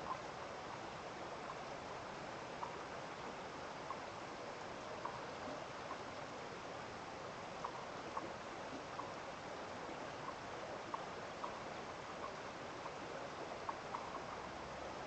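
Steady rush of a stream's flowing water, with small sharp ticks scattered irregularly through it, roughly one a second.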